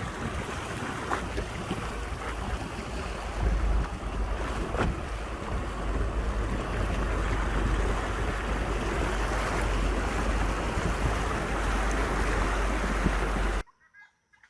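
Wind buffeting the microphone over the rumble and rush of a 4x4 driving off-road, with a few knocks. It cuts off suddenly near the end.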